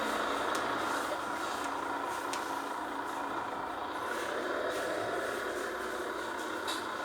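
A heavy engine running steadily, with a few light clicks.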